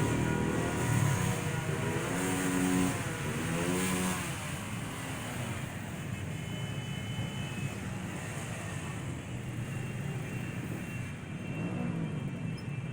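Parade vehicle engines revving and rising and falling in pitch as they pass during the first few seconds, then a steady rumble of engines and traffic noise.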